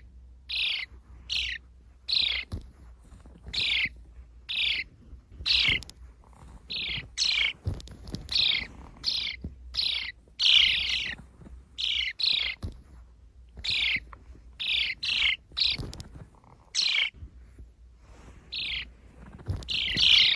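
Sparrow chirping over and over: short, downward-sliding chirps about once or twice a second, with a few short pauses.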